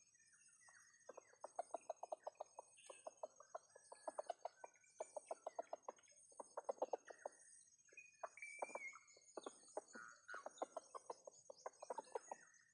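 Ayam kampung (Indonesian village chickens) clucking in quick runs of short low clucks, about ten a second, with an occasional higher chirp. A steady high-pitched insect trill carries on behind.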